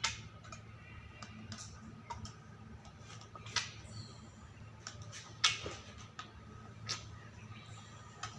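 A few sharp knocks and clicks of hand tools and parts at work on a diesel engine being assembled, scattered irregularly over a steady low hum; the loudest knock comes about halfway through.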